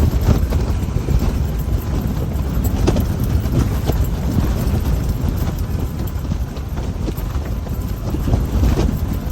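Strong wind buffeting the microphone, a loud uneven low rumble, with scattered light knocks and clicks through it.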